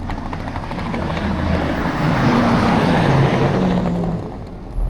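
A large vehicle passing close by, its engine and rushing noise swelling to a peak midway and then fading.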